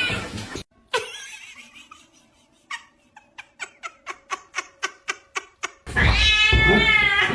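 A cat's loud, drawn-out yowl near the end. Before it comes a quick, even run of soft clicks, about five a second.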